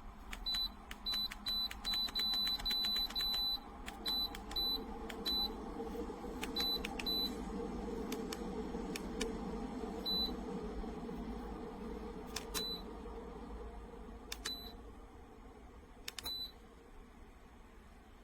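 Dreo tower space heater beeping at each button press: a quick run of short, high beeps, then single beeps every second or two. Under them the heater's fan rushes, growing stronger toward the middle and easing off near the end as the fan and heat settings are changed.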